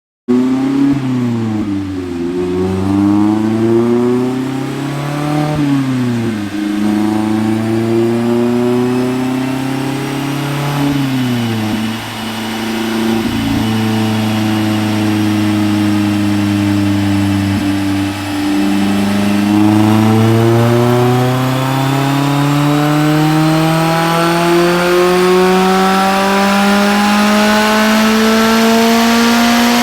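Mazda MX-5 Miata's 2.0-litre four-cylinder engine, breathing through an aftermarket axle-back exhaust and midpipe, running under load on a chassis dyno. The revs climb and drop several times as it shifts up through the gears, then from about two-thirds of the way in it pulls in one long steady rise in revs.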